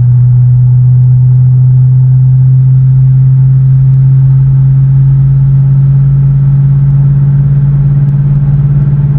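Ford Mustang GT's 5.0 Coyote V8 with a Magnaflow Competition cat-back exhaust, cruising at highway speed: a loud, steady low drone, its pitch rising slightly near the end. This drone between 65 and 80 mph is the fault that has the owner replacing the exhaust.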